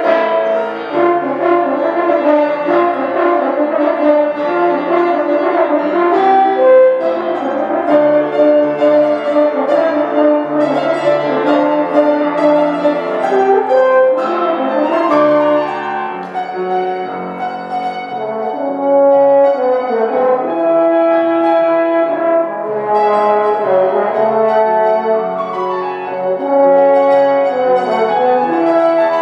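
Brass music: a melody on a brass instrument over an ensemble accompaniment, several held notes sounding together and changing about every second.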